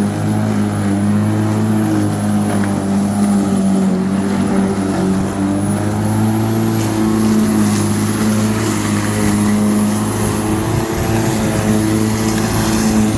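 Black & Decker 1800 W electric rotary lawnmower running steadily as it cuts grass: an even motor-and-blade hum with a thin high whine above it.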